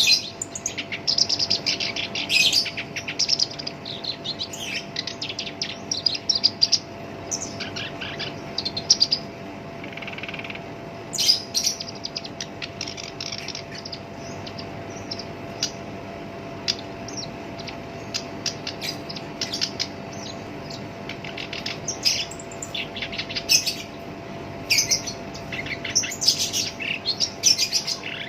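Black-browed reed warbler singing in fast, harsh, chattering phrases of rapid notes, in bursts broken by short pauses. A faint steady hum runs underneath.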